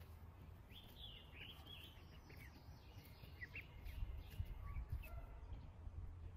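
Faint, scattered high bird chirps and peeps, a few short downward-gliding notes in quick groups, over a steady low rumble.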